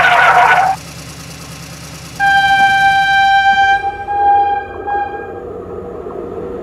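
A short loud horn blast, then about two seconds later a long, single-pitched diesel locomotive horn held for about three seconds before it fades, over a low engine rumble.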